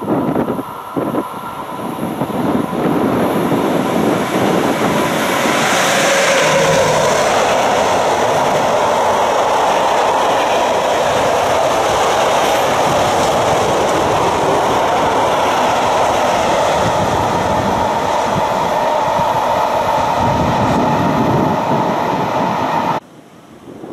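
Freight train of hopper wagons, hauled by a class 145 electric locomotive, rolling past at close range: steady wheel-on-rail rumble and clatter over the rail joints, with a thin steady whine above it. The sound cuts off suddenly near the end.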